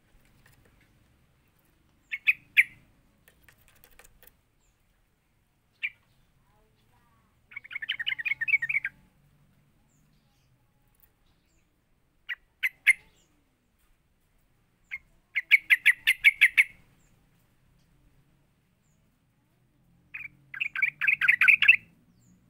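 Yellow-vented bulbul (trucukan) calling in repeated bouts. Each bout is a couple of sharp short notes followed by a fast, bubbly chattering phrase about a second long, four times with pauses between.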